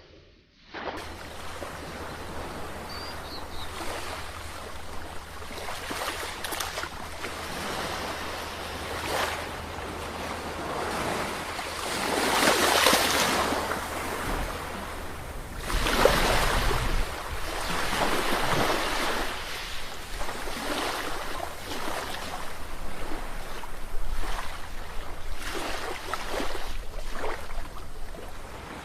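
Ocean waves breaking and washing onto the shore, a continuous rushing that swells and falls, starting up out of silence at the beginning. The biggest breakers come about twelve and sixteen seconds in.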